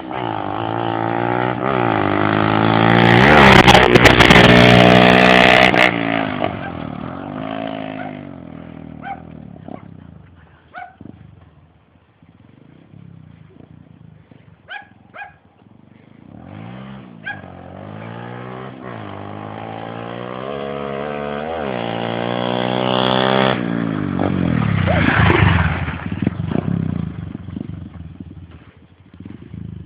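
Pit bike's small single-cylinder engine revving hard on a full-throttle run, its pitch climbing to a loud peak about four seconds in before dropping away. It runs quieter for several seconds, then climbs again to a second peak near the end, where the pitch falls off sharply.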